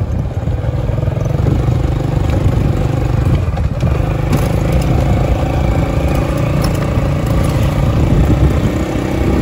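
Rusi Yuri 110 Wave Style motorcycle's single-cylinder four-stroke engine running steadily under way. It is no longer cutting out, its stator and pulser freshly cleaned, and the running sound has improved.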